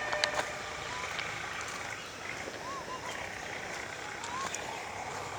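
Steady running noise of a Kangra Valley narrow-gauge train, with a few short chirps heard over it.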